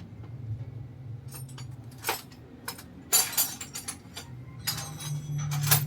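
Hand tools and steel parts clinking and knocking against each other as work goes on at the van's engine cross member: a scatter of sharp metallic clinks, the loudest about three seconds in, over a low hum that grows louder near the end.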